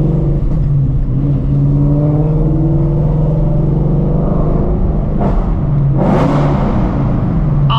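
2016 Shelby GT350's 5.2-litre flat-plane-crank V8, fitted with long-tube headers, running at low, fairly steady revs, heard from inside the car. There are two short bursts of noise about five and six seconds in.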